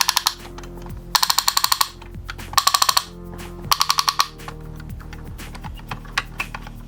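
Background music with several short bursts of rapid, evenly spaced clicking, each burst lasting under a second.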